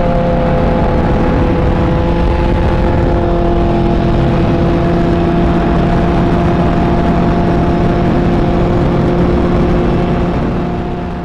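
Kawasaki Ninja H2's supercharged inline-four running steadily at a cruise on the road through an aftermarket exhaust, its pitch holding nearly level. It fades out near the end.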